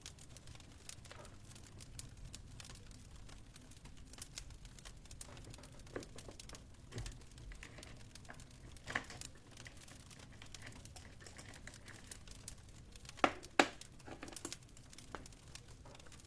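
Fire in a fireplace crackling, with scattered small pops and two sharper snaps close together near the end, over a faint low rumble.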